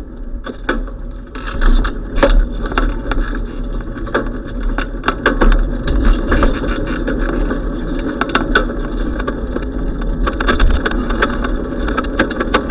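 Riding noise from a moving bicycle: steady tyre and road rumble with wind on the microphone, and irregular rattling clicks from the bike and its mount over the road surface.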